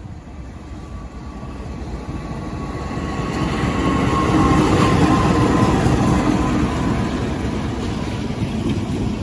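A train approaching and passing along the track, growing louder to a peak about halfway through, then easing off a little, with a few steady tones in the rail noise.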